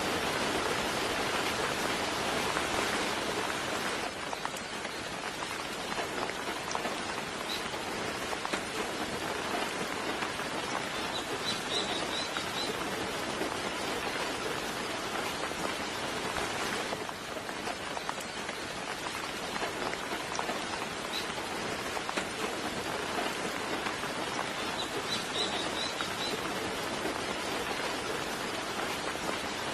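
Steady soft rain falling, an even hiss of drops, with a small bird chirping briefly and high twice, near the middle and near the end.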